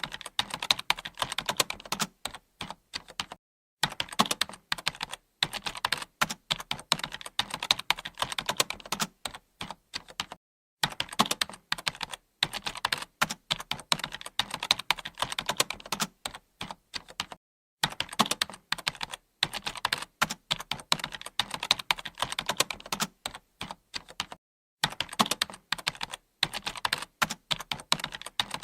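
Computer keyboard being typed on, fast runs of key clicks broken by brief pauses every few seconds.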